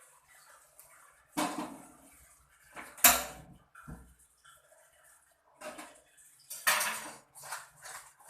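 Kitchen dishes and utensils clattering: a run of separate knocks and scrapes, the loudest about three seconds in, with quicker light clinks near the end.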